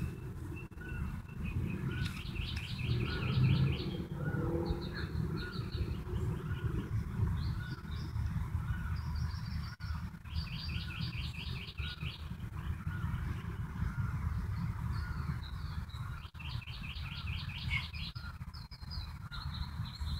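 Wild songbirds singing: a rapid trilled phrase repeated four or five times, over a steady string of short, evenly repeated notes, with a low background rumble.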